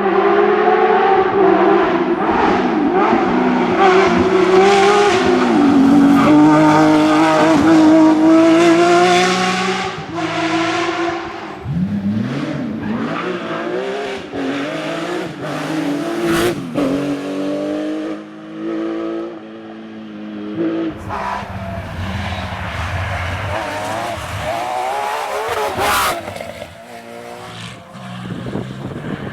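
Porsche rally car engines, six-cylinder, revving hard and climbing through the gears with abrupt drops at each shift, with some tyre squeal. Two sharp cracks cut through, one in the middle and one near the end.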